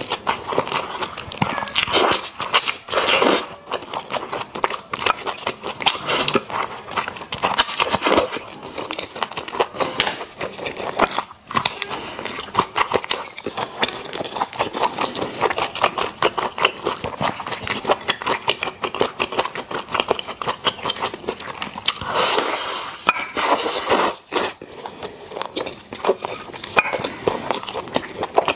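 Close-miked chewing of braised pork belly and rice: dense wet mouth clicks and smacks, with a louder, hissier stretch about three quarters of the way through.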